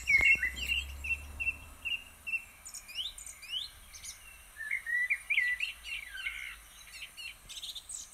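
Birds singing: a run of short chirps repeated about twice a second, then quick rising and falling whistled notes.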